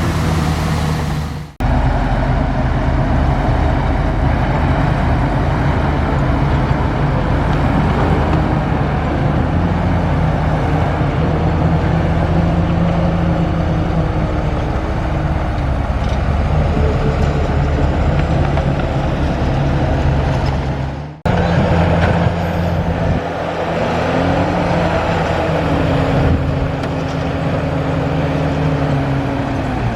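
Large bulldozer's diesel engine running steadily under load. The sound cuts out for a moment twice, once about a second and a half in and again about twenty-one seconds in.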